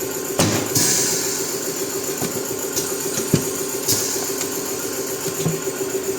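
A motor runs at a steady hum, with a few sharp knocks and short bursts of high hissing, the first about half a second in and another near four seconds.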